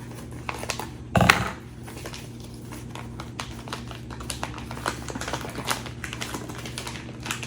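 Small clicks and crackles of a plastic pepperoni package being handled and worked open, with one louder rustling knock about a second in.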